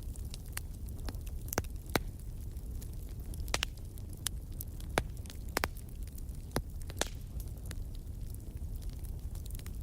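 Wood fire crackling: scattered sharp pops and snaps over a steady low rumble of the flames, with a few louder pops now and then.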